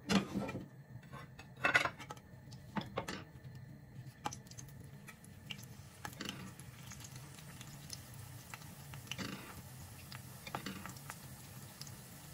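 Banana spring rolls (turon) being laid one by one into hot oil in a frying pan, with a series of short sizzles and light clinks at irregular intervals over a low steady background.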